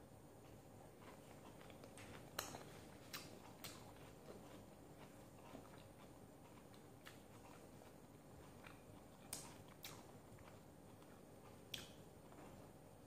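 Faint chewing and mouth sounds of someone eating chicken and vegetables by hand, with several short, sharp clicks scattered through. The loudest click comes a little over two seconds in.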